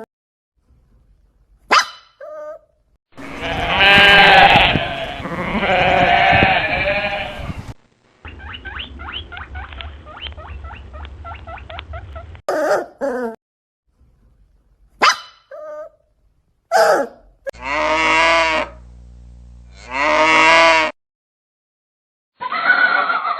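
A sequence of bleating calls from sheep or goat-like livestock: short bleats, a long wavering one, then two long wavering bleats near the end. In the middle comes a rapid pulsing call lasting about four seconds.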